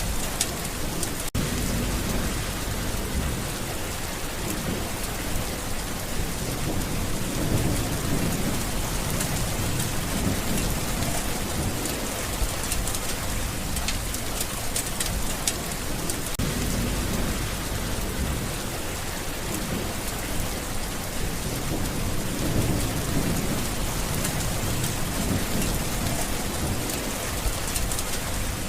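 Steady rain falling, with a fine patter of drops and slow low rumbles of thunder swelling and fading a few times.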